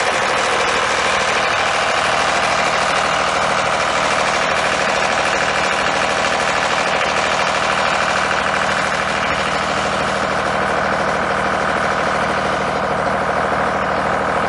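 An engine running steadily at an even idle, with no change in pitch or level.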